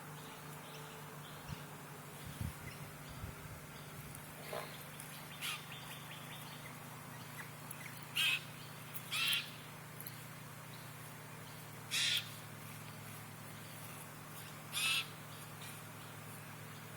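Wild birds calling: four short, loud calls come about eight, nine, twelve and fifteen seconds in, with fainter short calls between them. A steady low hum runs underneath.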